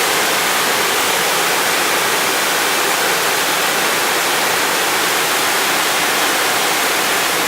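Waterfall on a rocky forest stream pouring steadily: an even, unbroken rush of falling water.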